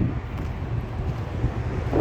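Wind buffeting the microphone: a low, uneven rumble that rises and falls with the gusts.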